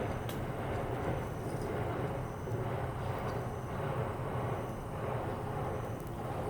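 Campfire of split softwood and hardwood firewood burning, with a few faint sharp crackles over a steady low rumble.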